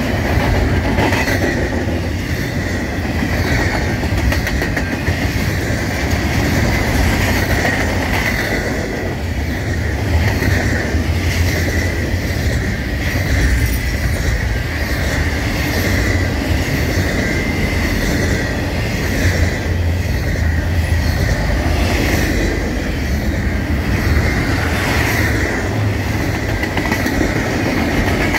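Double-stack intermodal container train's well cars rolling past at speed: a steady rumble of steel wheels on rail with intermittent clacks, and a thin steady high wheel squeal running through it.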